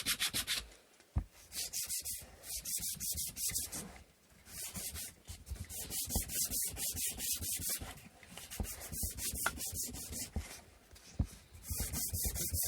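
Sandpaper rubbed back and forth over the wooden parts of an inkle loom: quick, even strokes in bouts of a few seconds, with short pauses between them.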